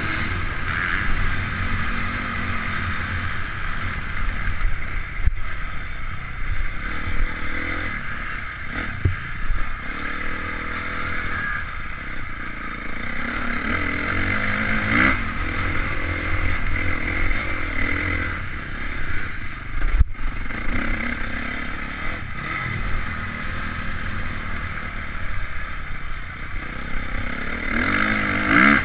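Honda CRF450 four-stroke single-cylinder motocross engine, heard onboard, revving up and falling back again and again as the bike is ridden hard, with rattling and scraping from the bike and a sharp knock about two-thirds of the way through.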